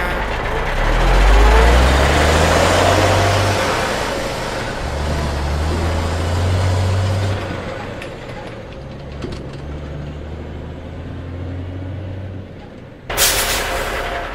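Heavy truck engine running and revving up three times, each time rising in pitch, with a short sharp hiss like an air brake release near the end.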